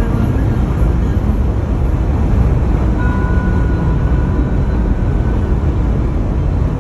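Steady low rumble of a vehicle running, with faint steady tones over it.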